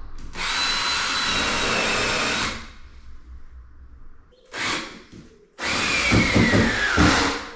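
Power drill with a countersink bit running in three bursts: a long steady run, a short blip, then a run whose whine drops in pitch as the motor slows under load, cutting countersinks into MDF.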